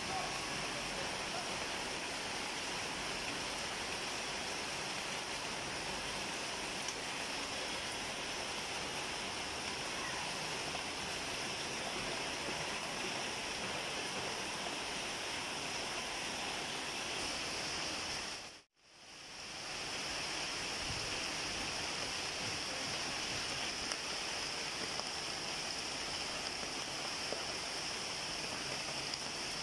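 Steady rainfall, an even hiss of rain on leaves and surfaces. It cuts out for a moment about two-thirds of the way through, then fades back in.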